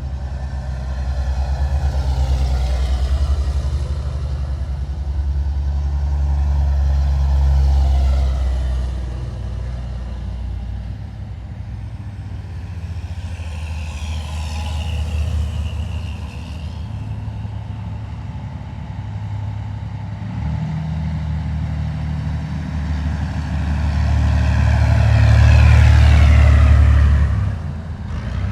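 Heavy military vehicles driving past one after another, their engines giving a deep steady drone that swells as each one nears. The passes are loudest about a quarter of the way in and again near the end, where the sound drops off sharply.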